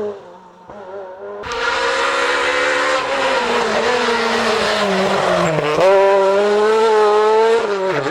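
Renault Clio R3 rally car's four-cylinder engine at high revs. It is quieter at first, then suddenly much louder about a second and a half in. The revs dip briefly about five and a half seconds in, then climb back up and hold.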